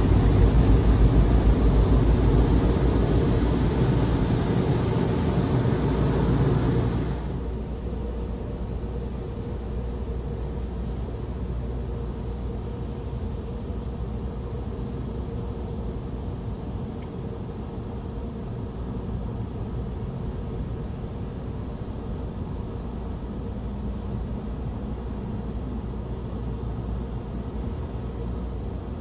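Car wash tunnel air dryers blowing loudly as a steady, even rush, dropping off sharply about seven seconds in and leaving a quieter steady rumble.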